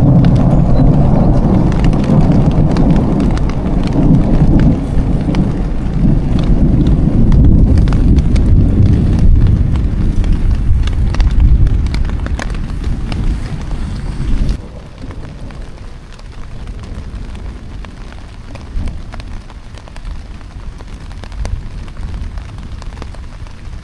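Thunder rumbling long and loud, low and deep, with rain pattering throughout; the rumble cuts off abruptly about 14 seconds in, leaving quieter steady rain patter.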